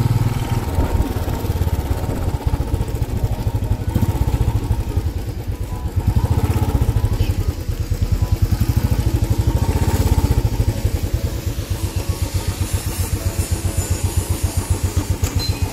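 Motorcycle engine running at low revs while riding, with a steady low beat; in the last few seconds the beats become distinct and evenly spaced.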